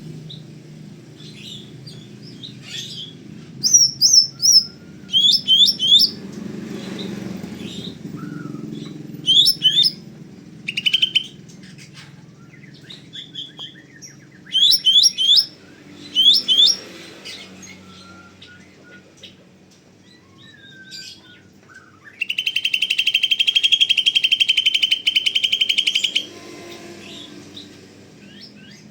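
Cucak ijo (green leafbird) singing in full voice: loud, short phrases of quick whistled notes, often in threes, then a fast chattering trill lasting about four seconds near the end.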